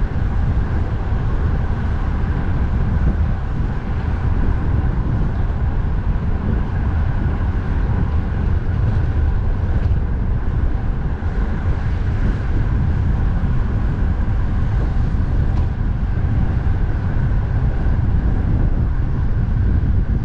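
Strong wind buffeting the microphone in a steady low rumble, mixed with the noise of road traffic on a busy expressway.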